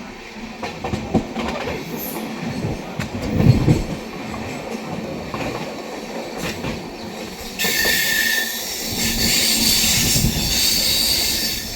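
Poorva Superfast Express passenger train running on the rails, wheels knocking and clattering over the track. About eight seconds in a louder high-pitched wheel screech sets in and holds.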